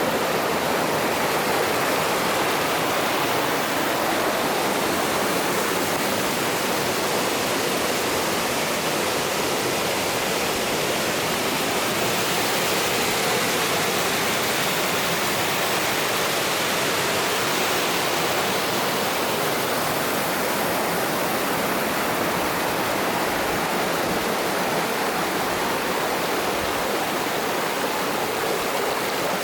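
Mountain stream water rushing in a steady, even roar of flowing water.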